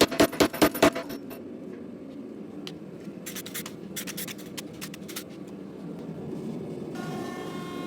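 A quick run of about six sharp hammer blows on steel in the first second, then a steady rushing, scraping noise with scattered clicks. A steady pitched tone comes in near the end.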